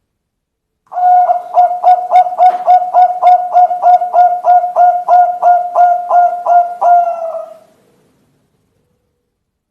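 Zebra dove (perkutut) calling: one long run of about twenty quick, evenly spaced cooing notes, about three a second, starting about a second in and lasting some six seconds.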